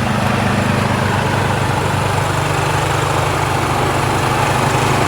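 Snowblower engine running steadily while clearing snow, with a slight change in its tone about two seconds in.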